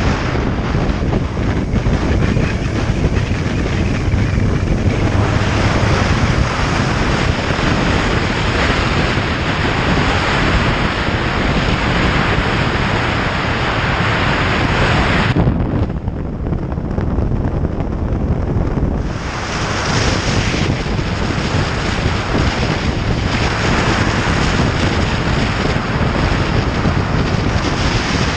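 Wind rushing and buffeting over the microphone of a moving motorcycle, a loud steady roar with road and vehicle noise underneath. About halfway through, the higher hiss drops away for a few seconds, then comes back.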